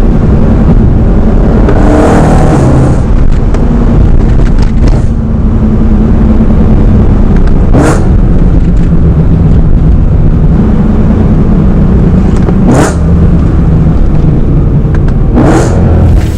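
Modified BMW M3 V8 accelerating hard, very loud, its engine note climbing in pitch several times as it revs up through the gears.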